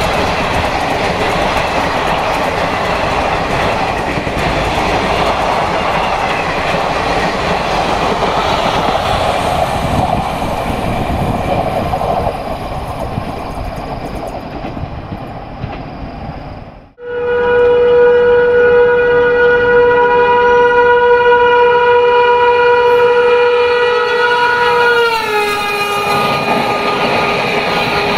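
High-speed trains hauled by WAP7 electric locomotives. For the first half, a train's wheels rattle and clatter over the rails as it passes, fading away. After a brief gap comes one long, steady horn blast from an approaching train, which drops in pitch as the train passes near the end.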